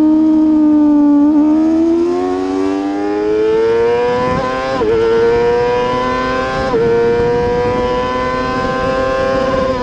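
Superbike race motorcycle engine at full throttle, its pitch climbing steadily as it accelerates, with two quick upshifts about five and seven seconds in.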